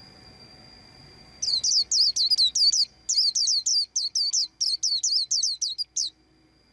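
White-eye singing a fast run of sharp, falling chirps, about five a second, starting about a second and a half in, with a short break, then stopping near the end. A thin steady high tone runs behind it.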